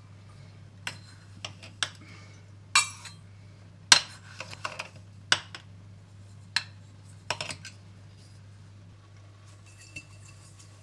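Dishes and cutlery clinking and knocking as they are handled, about a dozen sharp clinks over several seconds, the loudest about four seconds in, over a steady low hum.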